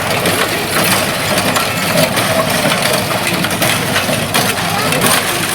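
Farm machinery at work: an engine running under a steady rattle and clatter of moving parts.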